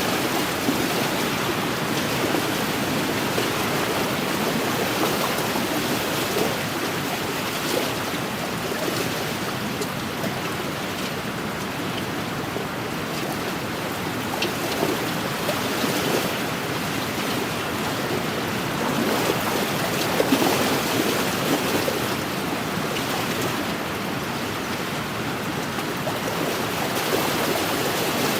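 Wind-driven waves lapping and splashing along a lakeshore: a steady rushing wash that swells and eases gently every few seconds.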